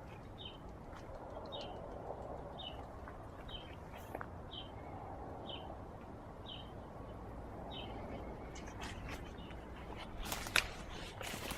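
A small bird chirping over and over, a short call about once a second, over a steady outdoor hiss. Near the end come a few sharp clicks and rustles.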